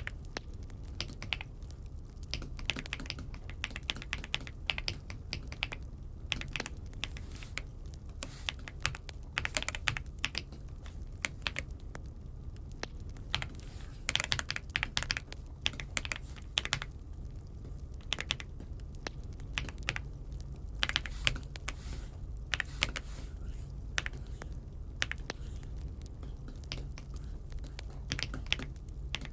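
Typing on an Aula F75 mechanical keyboard: irregular flurries of key clicks with short pauses between them, over a steady low hum.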